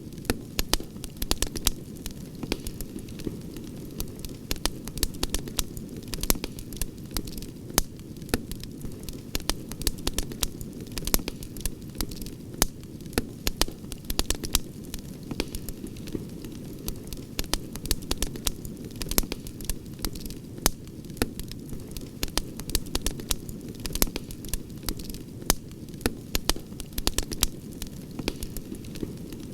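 Campfire crackling and popping, with many irregular sharp snaps over a steady low rushing noise.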